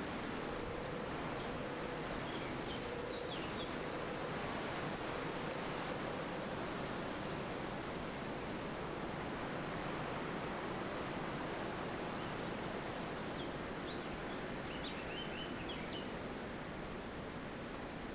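Wind blowing steadily through forest trees as an even rushing hiss, with faint bird chirps in two short clusters, one a couple of seconds in and a longer one near the end.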